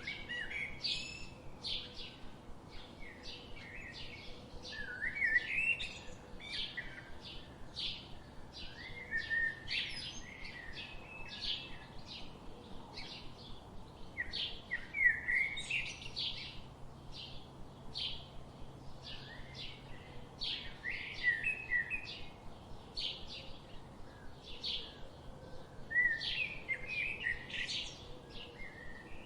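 Several songbirds chirping and singing, with quick overlapping calls throughout and louder bursts of song every few seconds.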